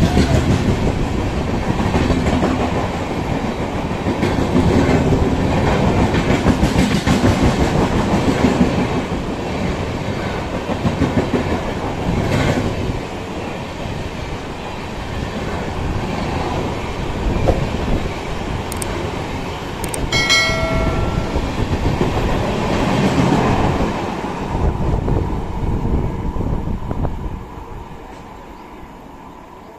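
Express train's sleeper coaches passing at speed, with continuous rumbling and wheel clatter over the rail joints. A short horn blast sounds about two-thirds of the way through, and the train noise fades away near the end.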